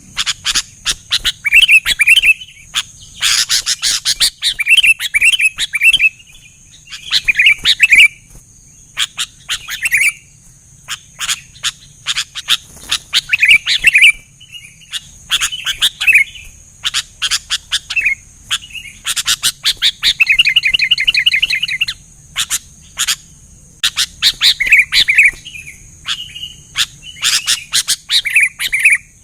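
Sooty-headed bulbuls (kutilang) calling: short, bright, chirpy phrases repeated every second or two, with a fast trill about two-thirds of the way through.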